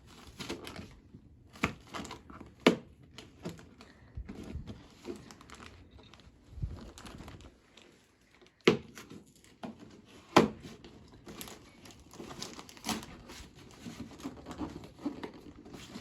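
A Lego Technic set's packaging being opened and handled by hand: cardboard and plastic crinkling and tearing, with a few sharp knocks.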